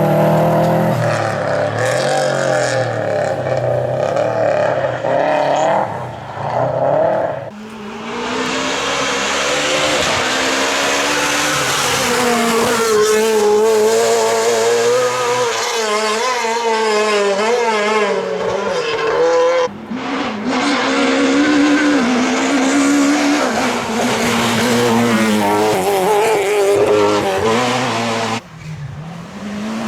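Rally cars driven flat out on a stage, engines revving hard up and down through the gears, with tyre squeal. The sound breaks off abruptly a few times and picks up again.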